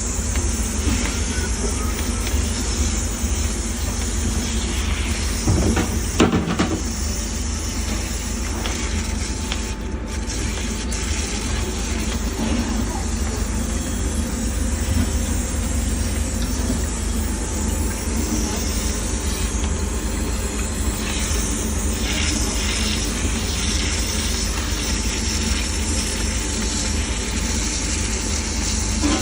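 A machine running steadily: a constant low rumble with a hiss over it, and a brief knock about six seconds in.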